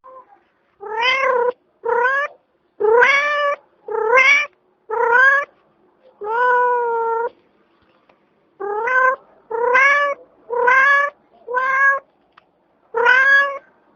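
Domestic cat meowing over and over: about eleven short meows, each rising in pitch, with one longer, drawn-out meow near the middle.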